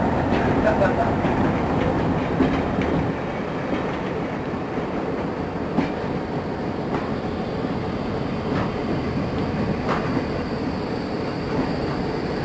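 Passenger train coaches rolling slowly past on the rails: a steady rumble with a few sharp clicks from the wheels and running gear, louder in the first few seconds.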